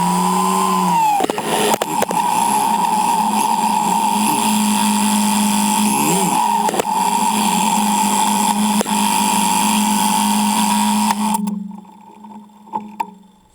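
Yamaha Road Star Silverado V-twin engine running steadily under way, with wind hiss on the bike-mounted microphone; the engine note dips about a second in. The sound falls away about eleven seconds in.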